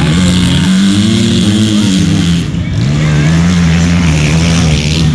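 Motocross bike engine revving, its pitch rising and falling with the throttle. The engine drops off briefly about two and a half seconds in, then climbs again and holds a steady high pitch.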